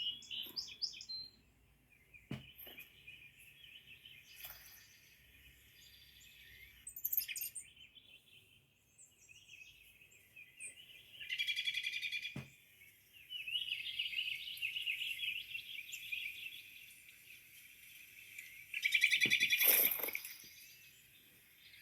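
Small birds chirping and twittering together almost without a break, with two louder spells of fast, rattling chatter, one about halfway through and one near the end.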